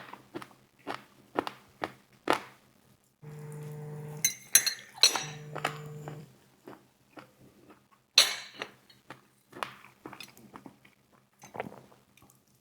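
Close-up eating of crispy fried chicken wings: repeated crunchy bites and chewing, with sharp clinks and clatter of containers being handled. A low steady hum comes in twice, for about a second each time.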